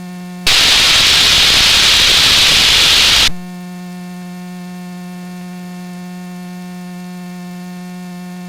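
Steady electrical hum on an aircraft intercom and radio audio feed, broken about half a second in by a loud burst of radio static hiss that cuts off sharply about three seconds later, leaving the hum.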